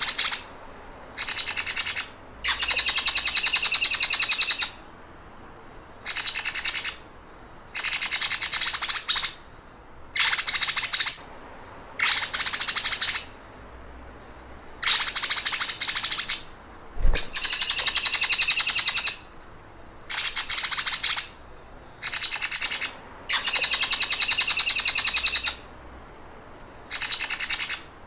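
Songbird singing rapid, rattling 'sewing machine' (mesin jahit) trills in repeated bursts of one to two seconds or so, each followed by a short pause of about a second.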